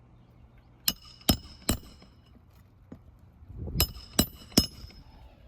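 Hammer driving roofing nails into an asphalt shingle: two sets of three sharp, ringing blows about half a second apart, with a brief scuff in between.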